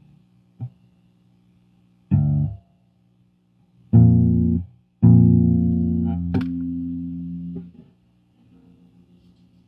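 Electric bass (Fender Jazz Bass) played through an MXR M175 Digital Time Delay into an Orange Crush bass amp. A brief pluck, two short notes, then a longer note that rings for almost three seconds, with a sharp string click in it. A faint wavering hum follows near the end.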